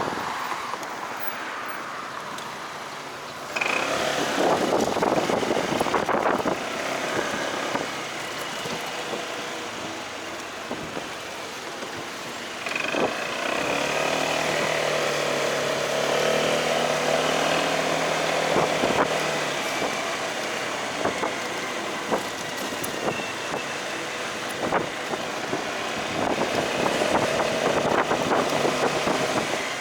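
Motorcycle ride heard from the bike: engine running with wind rushing over the microphone and road traffic around, and a wavering engine hum that grows louder for several seconds near the middle.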